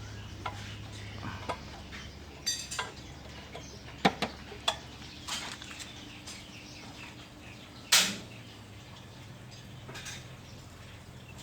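Scattered light clicks and taps, with one sharper knock about eight seconds in, over a faint low hum.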